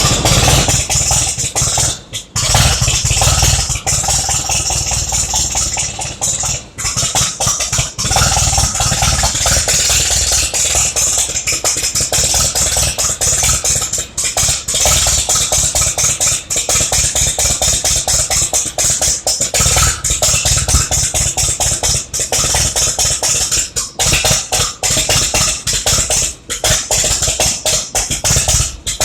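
Massey Ferguson Super 90 gas tractor engine being cranked over on the starter in a start attempt, loud and continuous, with brief breaks about 2 and 7 seconds in. It does not catch and keep running: this is an unchoked attempt that fails.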